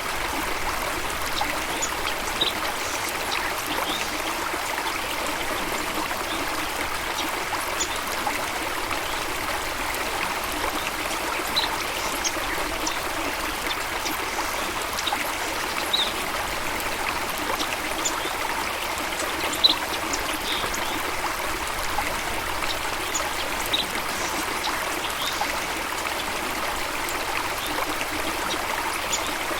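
Steady rush of running water, a stream or small falls splashing continuously, with a few brief high sounds scattered through it.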